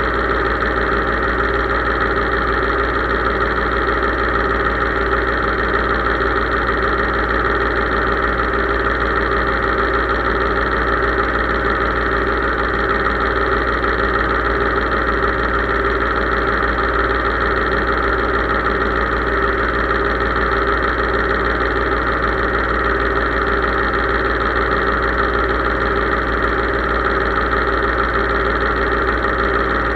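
Case IH 3220 tractor engine running steadily, its drone unchanging throughout.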